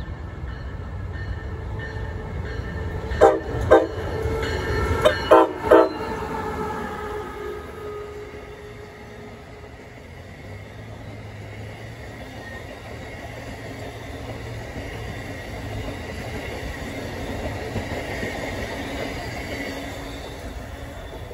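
Amtrak electric locomotive sounding its horn in a run of short blasts, two and then three, about three to six seconds in. After the horn, its passenger cars roll past with a steady rumble on the rails.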